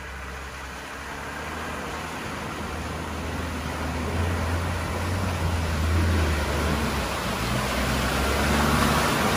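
Lada Niva engine running with a low hum, the engine and surrounding noise growing steadily louder over several seconds.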